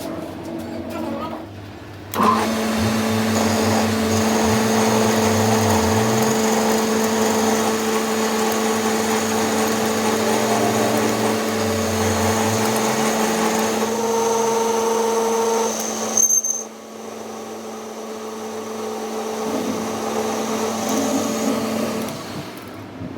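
An electric power tool's motor running at a steady speed with a constant hum. It starts about two seconds in, stops near the middle, starts again a second later and runs on until near the end.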